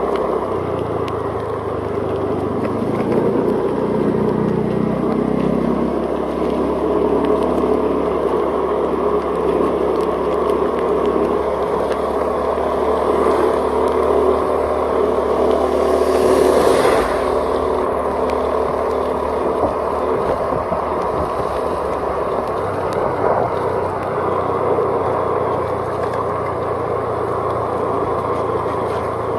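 A vehicle's engine running while driving, with steady road and wind noise. The engine pitch rises a few seconds in, and a brief whooshing hiss swells and fades just past the middle.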